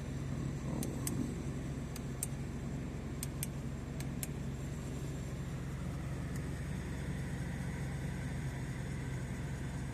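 1991 Mitsubishi 3000GT VR4's twin-turbo 3.0-litre V6 idling steadily. Four pairs of sharp clicks come in the first few seconds, and one more about six seconds in.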